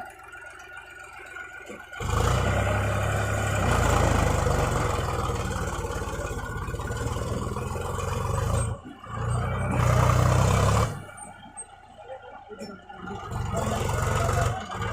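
A heavy diesel engine running hard, such as a backhoe loader or tractor at work, in loud stretches that start and stop abruptly, with quieter spells between.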